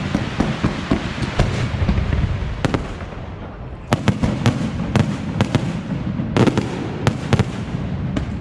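Fireworks display: a dense run of crackles and bangs that eases about three seconds in, then a new series of sharp, separate bursts from about four seconds in.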